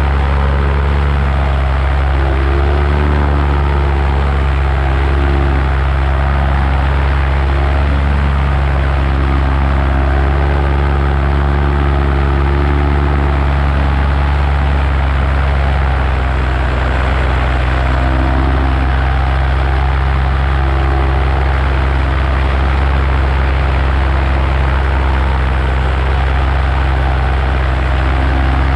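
Paramotor engine and propeller running steadily in flight: a loud, constant drone.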